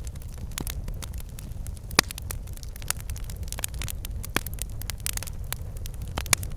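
Campfire crackling: irregular sharp pops and snaps of burning wood over a steady low rumble of the flames, with one louder pop about two seconds in and another near the end.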